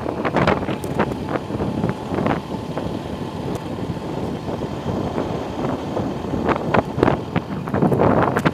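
Riding on a motorcycle: wind buffeting the microphone in uneven gusts over the steady noise of the moving bike, with a stronger gust near the end.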